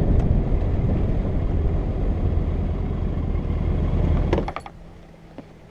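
Motorcycle at road speed: heavy wind rush and engine noise on the microphone. About four and a half seconds in it cuts off abruptly, leaving a much quieter low hum with a few light clicks.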